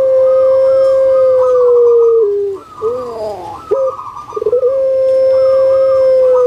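Puter pelung dove (Streptopelia risoria) singing loudly: two long, drawn-out coos held on one steady pitch, each stepping down slightly at its end, with a short rolling, wavering run of notes between them.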